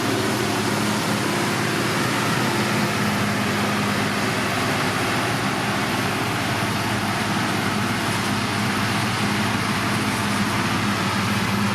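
Diesel engine of heavy road-building machinery running steadily, a low engine hum under a broad rushing mechanical noise.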